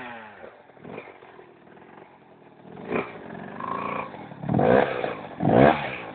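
Motorcycle engine, likely a dirt bike, revving in two short bursts near the end, each rising and falling in pitch, after a quieter stretch of low running.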